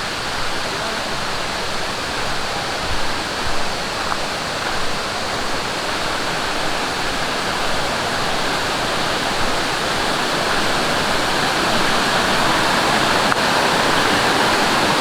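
Mountain valley stream rushing over rocks: a steady rush of water that slowly grows louder.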